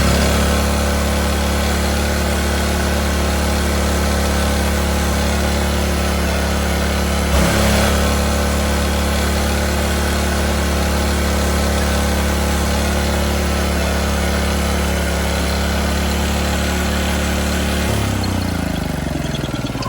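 Small single-cylinder petrol engine of a 2.7 kVA generator running at a steady high speed that the governor is not holding down. There is a brief knock about seven seconds in, and near the end the pitch falls as the engine slows.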